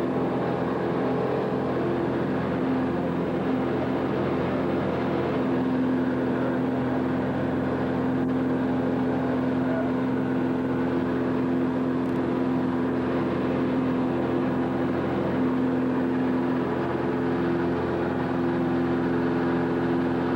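A vehicle engine running with a steady, unchanging drone.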